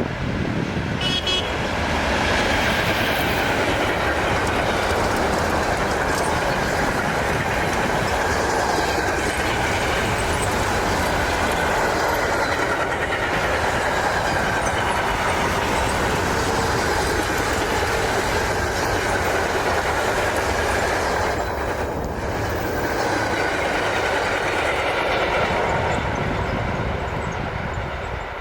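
A Green Cargo Re electric locomotive hauling a freight train past, wheels rolling on the rails in a loud, steady rush with shifting tones, easing off near the end.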